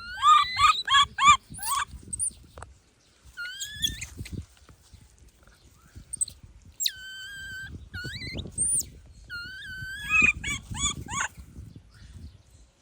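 A baby monkey crying out: a quick run of short, high squeals at the start, a couple of long, held high-pitched cries in the middle, and another quick run of short squeals near the end.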